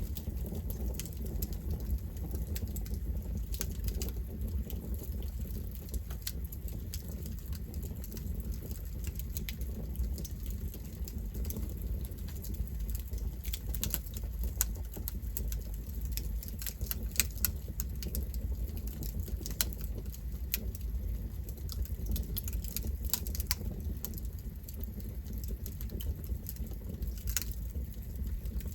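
Campfire burning steadily with a low rumble, its wood crackling and popping in scattered sharp snaps that come thicker in the middle stretch.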